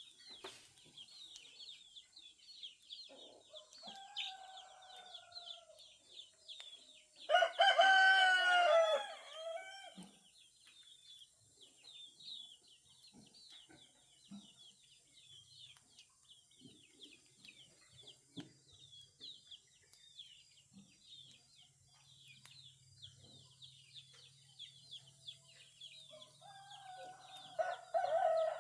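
Roosters crowing at dawn: a fainter crow about three seconds in, a loud one of about two and a half seconds near seven seconds in, and another starting near the end. Behind them, small birds chirp without a break.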